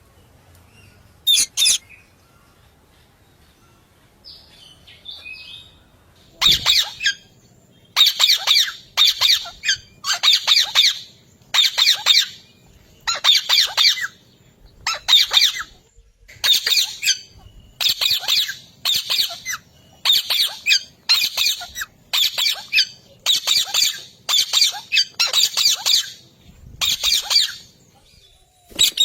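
Parrot squawking over and over: harsh, high calls, one or two every second and often in quick pairs, after a short call and a few quiet seconds at the start.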